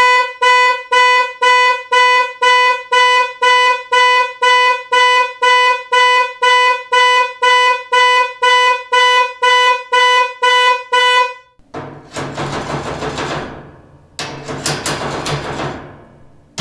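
A buzzy, horn-like tone beeping about twice a second for roughly eleven seconds, then cutting off. It is followed by two long bursts of harsh hissing noise over a low hum.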